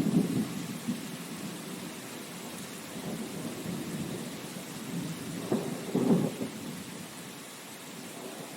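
Steady rain hiss with rolls of thunder rumbling low, loudest at the start and again about six seconds in, then dying away toward the end.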